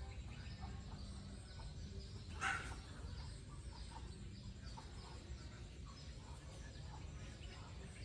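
Faint, scattered bird chirps over a steady low background rumble, with one short, louder sound about two and a half seconds in.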